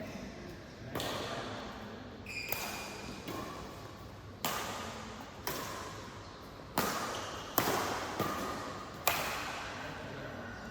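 Badminton rally: sharp racket-on-shuttlecock hits about every second to second and a half, each ringing on in a large hall, with a short high squeak about two and a half seconds in.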